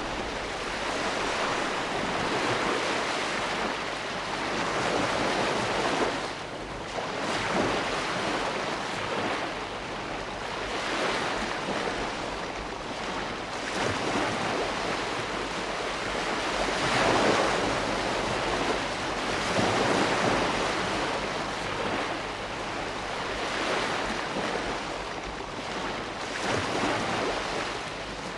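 Ocean surf washing in continuously, a steady rush that swells and eases every few seconds as the waves break and draw back.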